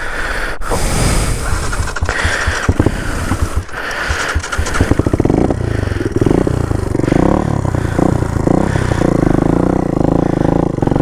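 Dirt bike engine running. For the first five seconds or so it is rough and uneven with irregular knocks, then it settles into a steadier, pulsing run with the revs rising and falling.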